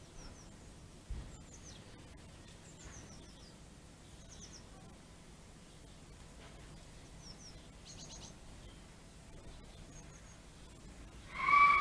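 Small garden birds giving faint, thin, high chirps at scattered intervals over a low background hum. Near the end a child's voice calls out loudly.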